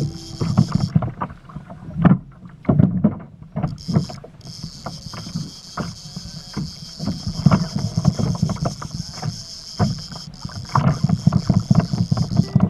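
A kayak on choppy water: waves slapping and knocking irregularly against the plastic hull.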